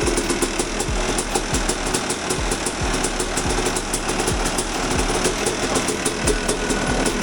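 2001 Yamaha YZ250's single-cylinder two-stroke engine running steadily at idle, a rapid crackle of firing pulses, cold-started on the first kick after a full engine rebuild.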